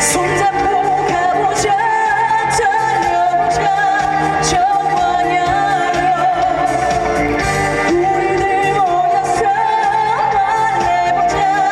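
Live trot song: a woman sings long, wavering held notes over full band accompaniment with a steady beat.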